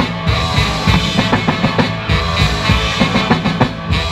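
Live rock band playing an instrumental passage between sung lines: drum kit with regular beats, bass and guitar.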